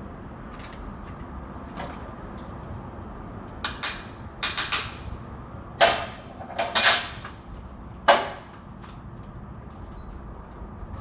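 A cluster of sharp clanks and knocks, about six over five seconds, some drawn out into short scrapes, as tools and parts are handled during scooter oil-change work. A low steady hum lies under them.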